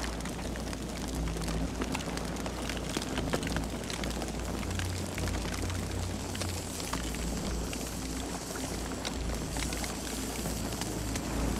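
Campfire burning, with frequent sharp crackles and pops from the wood over a steady low rumble of the flames.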